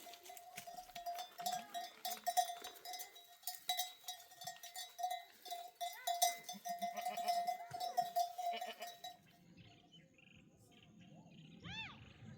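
Metal bells on livestock clanking steadily as the herd moves, until they fade out about three-quarters of the way through. A single short call rises and falls near the end.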